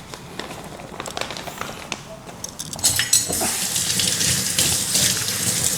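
A few light clicks, then water running from a tap from about three seconds in.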